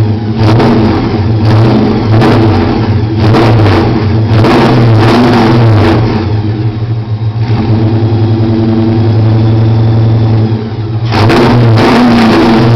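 Holden VN Commodore SS's 5.0-litre 304 V8 running through a 3-inch exhaust, its note rising and falling repeatedly under throttle. It settles to a steadier tone past the middle and opens up hard again near the end.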